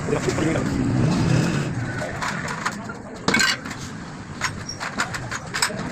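Sharp metallic clicks and knocks of hand tools on engine parts, one louder knock about three seconds in, over a steady background noise.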